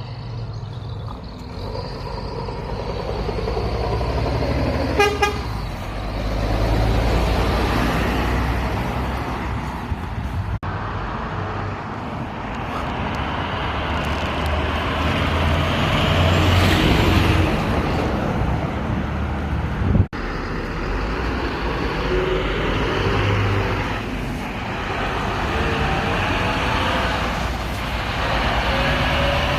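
Trucks driving past on a road, a steady rumble of heavy diesel engines and tyres rising and falling as they pass. There is a short truck horn blast about five seconds in, and later an engine's pitch rises as it pulls away.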